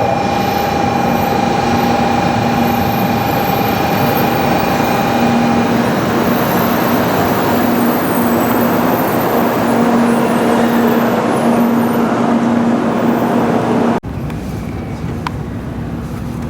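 Train running noise: a loud, steady rush with a held whine that stops about six seconds in and a lower pulsing hum. About 14 seconds in it cuts abruptly to a quieter background with a few clicks.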